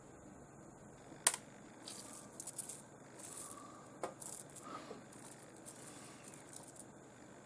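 Small rough opal pieces clicking and rattling as they are handled: one sharp click about a second in, then a few seconds of light, scattered clicks and rustling.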